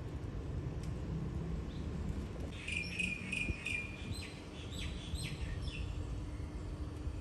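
A small bird chirping a quick run of short high notes, about four a second, for roughly three seconds, starting a couple of seconds in. Steady low outdoor rumble underneath.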